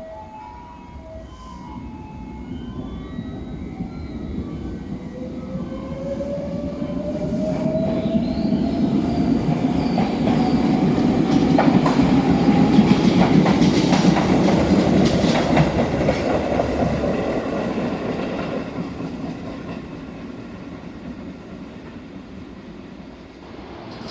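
Electric train accelerating away along the platform, its traction motors giving a whine that rises steadily in pitch. The rumble grows to a loud peak about halfway through as the cars go by, with wheels clacking over rail joints, then fades as it draws away.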